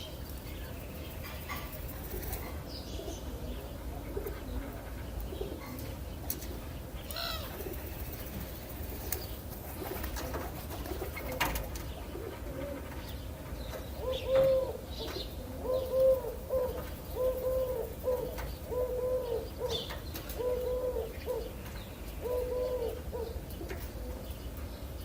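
A dove cooing, a run of low repeated coos about once a second through the second half, with small birds chirping sparsely earlier on.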